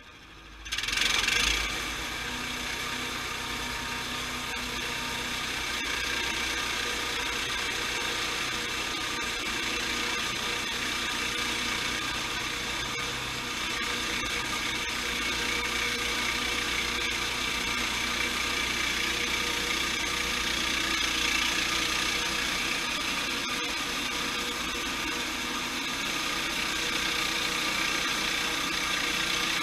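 Sawmill machinery comes on suddenly about a second in, then runs steadily with a mechanical whine.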